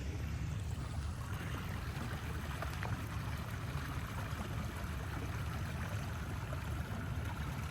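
Steady low rumble of a slowly moving vehicle, with the even rushing of flowing rainwater coming in about a second in.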